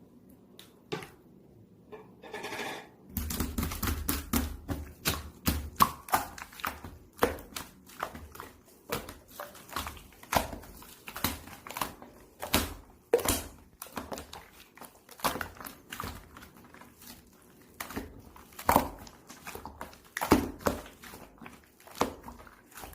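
Rapid, irregular sharp clicks and knocks, starting about three seconds in and continuing densely, like objects being handled or tapped close to the microphone.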